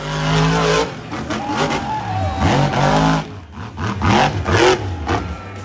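Monster truck engine revving hard in repeated bursts, its pitch rising and falling three or four times, with a short drop in level about three and a half seconds in.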